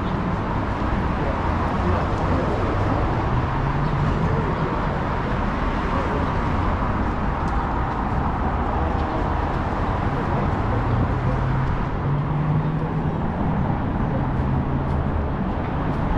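Downtown street ambience: a steady noise of road traffic, with the low hum of passing vehicle engines.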